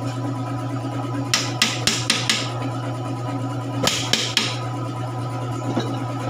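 Hammer tapping on metal engine parts during assembly: a quick run of about five sharp taps, then three more, then a single one near the end, over background music.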